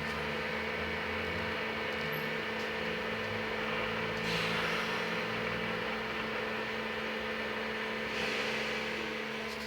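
Inside a LiAZ-6274 electric bus: steady electrical hum with a constant low whine, and two short swells of hiss about four and eight seconds in.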